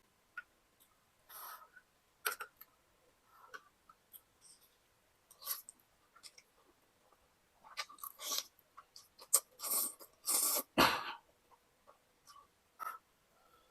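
A person eating fried instant noodles (Indomie goreng) close to the microphone: scattered chewing and mouth noises, coming thickest and loudest about eight to eleven seconds in, with a dull knock near eleven seconds.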